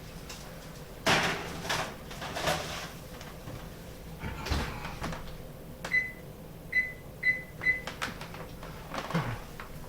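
Oven door and pan handling: knocks and clatter, then a low thump as the pot pie goes in and the door shuts. Then four short electronic beeps from a keypad as the cooking timer is set.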